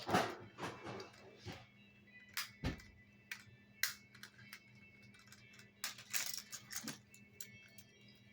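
Toy construction vehicles being handled: irregular clicks, knocks and light clatter, a cluster near the start, a single heavier knock a little before three seconds, and another cluster about six to seven seconds in.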